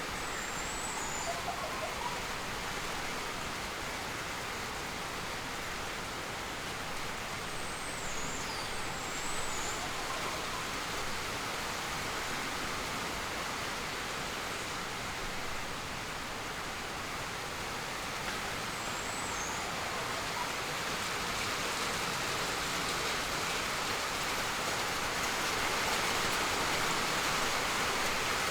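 Steady rushing ambient noise, like flowing or falling water, with a few brief high-pitched bird chirps: one about a second in, a couple around eight to nine seconds in, and another around nineteen seconds in.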